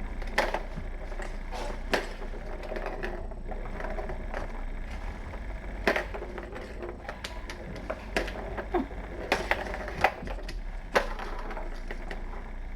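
Kittens playing with a toy, making irregular clacks and rattles with about ten sharp knocks spread through, over a steady low hum.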